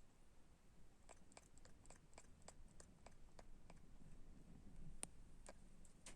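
Faint quick clicks, about three a second for a few seconds, then a few scattered ones, from a cocker spaniel twitching in a dream as he sleeps.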